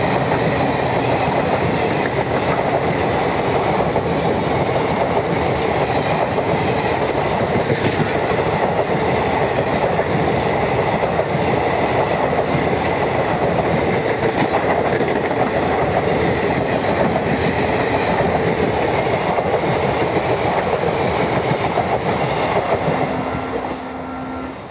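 Passenger coaches of an express train rolling past close by at speed: steady, loud rumble and clatter of wheels on the rails. The noise drops away near the end as the train moves off.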